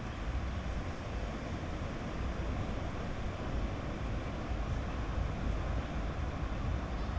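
Sea waves breaking and washing on a beach: a steady rush with a low rumble underneath.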